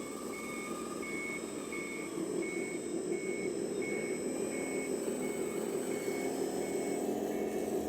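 Reversing beeper of an RC model truck's sound module, beeping steadily about one and a half times a second, over the running noise of the model's drive.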